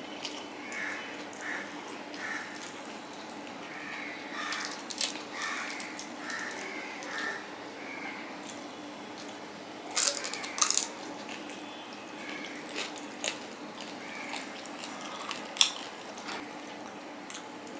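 Close-miked eating sounds: wet chewing and mouth smacks as rice and fried hilsa fish are eaten by hand. Small clicks are scattered throughout, with a cluster of sharper ones about ten seconds in.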